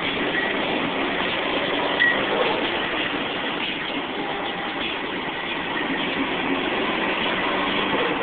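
Nissan SR20DET turbocharged four-cylinder engine in a Ford Escort, running steadily at cruising load, heard from inside the cabin together with road noise.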